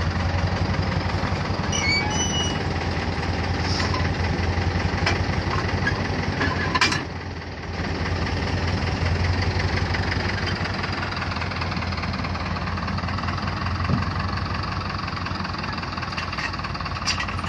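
A machine's engine running steadily with a fast rattle, dipping briefly about seven seconds in.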